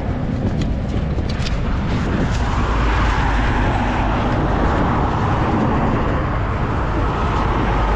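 Strong wind buffeting the microphone: a loud, unsteady low rumble, with a few light clicks in the first couple of seconds.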